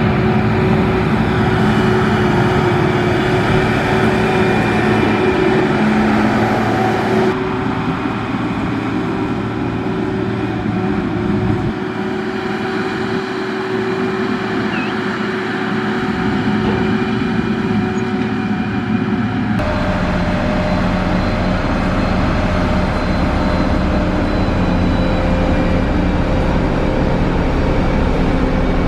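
Heavy diesel construction machinery running steadily under load, with engine tones held over a rumble. The sound changes abruptly twice, about seven and twenty seconds in, as a different machine or shot takes over.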